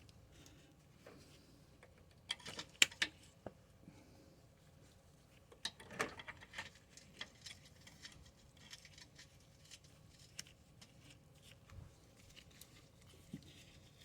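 Scattered light clicks and clinks of metal parts being handled while a radiator mounting bracket is fitted, with two short clusters of sharper taps about two and a half and six seconds in.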